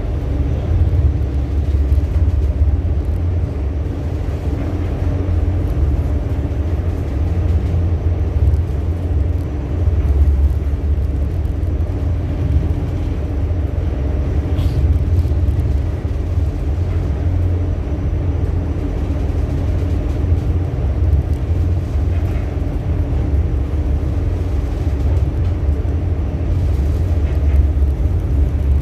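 A ship's engine running, heard on board as a steady deep rumble with a constant hum over it.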